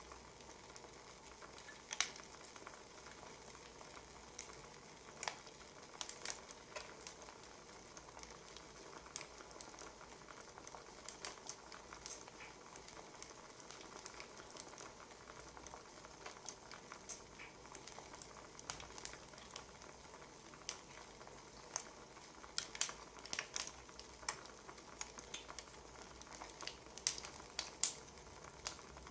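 Wood fire crackling: a steady soft hiss with irregular sharp pops and snaps, coming more thickly near the end.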